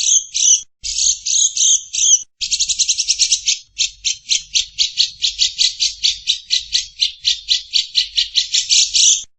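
Bird calling in a long series of harsh, chattering notes. A few irregular bursts come first, then a fast, even run of about five to ten notes a second that cuts off abruptly near the end.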